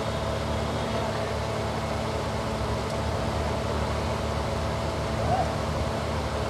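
Car engine running at a steady idle, a constant low hum with a brief high chirp about five seconds in.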